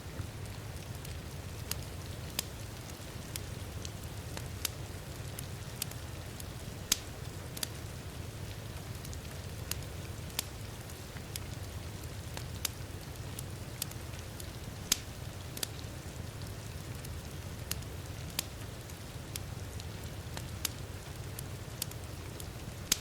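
Crackling wood fire with sharp, irregular pops a few times a second, over the steady hiss and low rumble of heavy rain.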